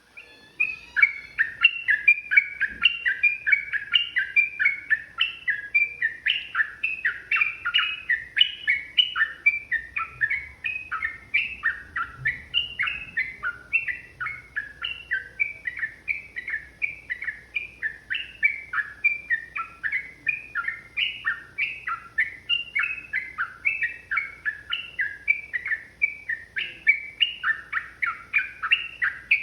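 Yellow-vented bulbul (trucukan) singing a long unbroken run of rapid, chattering notes, about three a second.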